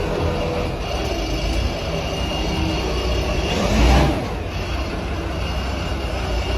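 Steady rumbling vehicle-like noise, with a brief swell about three and a half seconds in that rises and falls like something passing by.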